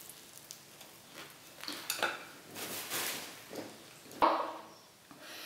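Eating pizza up close: a bite, then chewing on the crust, heard as a string of short crunchy noises. A sharper knock comes about four seconds in.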